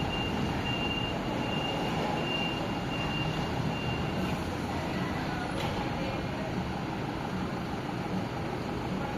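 Steady rumble and hiss of a metro train running, with a thin high whine through about the first four seconds that then stops.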